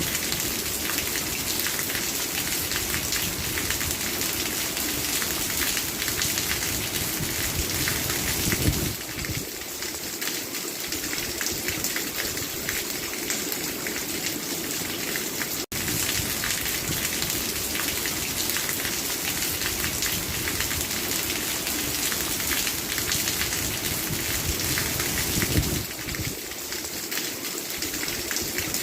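Steady rain falling, a dense even patter of drops. It cuts out for a split second about halfway through.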